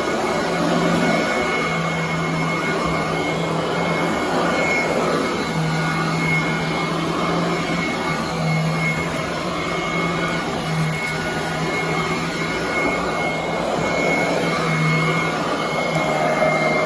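Royal commercial vacuum cleaner running on carpet. It makes a steady rushing noise with a thin high whine, and a low hum cuts in and out every second or two.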